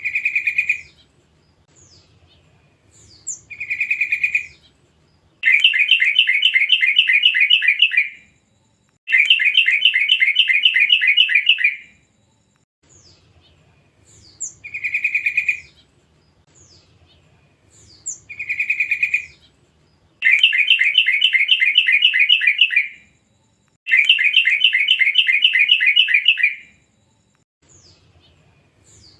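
Yellow-vented bulbul (trucuk) calling: short, loud single calls alternating with pairs of rapid chattering runs about three seconds long each, the same sequence repeating twice as a lure call.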